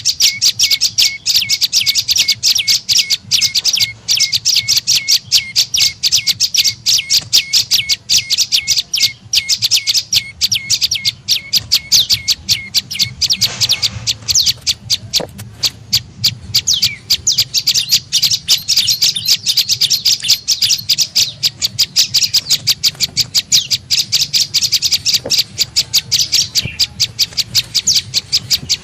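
Prenjak lumut lure call: a fast, unbroken run of sharp, high chirps repeated several times a second, with a faint low hum underneath.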